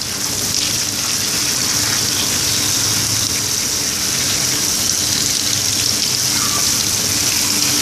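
Water running steadily from a garden hose, a constant rushing hiss.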